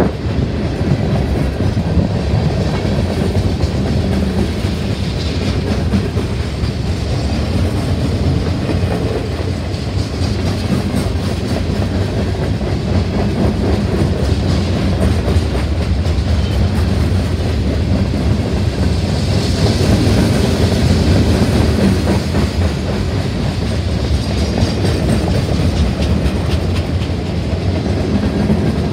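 Freight train of boxcars rolling past at close range: a steady rumble of steel wheels on the rails with continuous clickety-clack.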